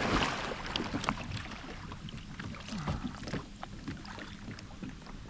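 Water splashing, with a brief burst right at the start followed by light sloshing and scattered small knocks and drips.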